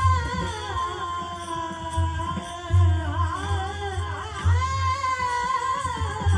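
A young singer singing a Marathi bhajan (abhang) in a high voice, holding long notes with ornamented turns, over a drum accompaniment that drops out and comes back.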